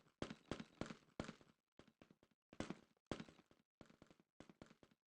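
Near silence, broken by a few faint, short taps in the first three seconds.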